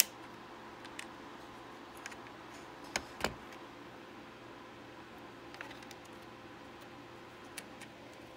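Scattered small clicks and taps of computer parts being handled, with a sharp click at the very start and a louder pair about three seconds in, over a faint steady hum.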